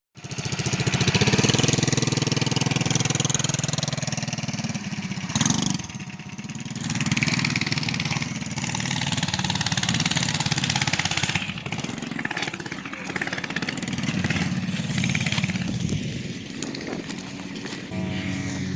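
Small minibike engine running under load, its pitch and level rising and falling as the throttle is worked.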